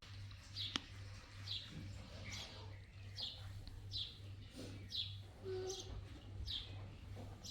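A small bird calling over and over, a short falling chirp repeating about every second. There is one sharp click a little under a second in, and a low hum underneath.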